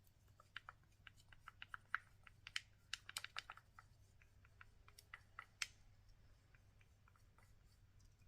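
Faint, irregular light clicks and taps of kitchen utensils, such as a measuring spoon against containers, over near silence, ending a little before six seconds in.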